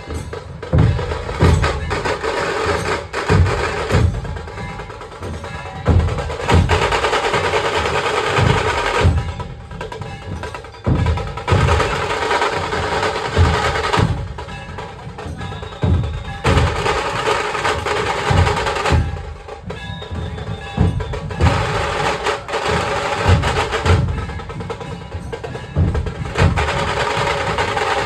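Dhol-tasha ensemble playing: dhol drums beat a steady rhythm of deep thumps while tasha drums play fast rolls in stretches of a few seconds, breaking off and coming back several times.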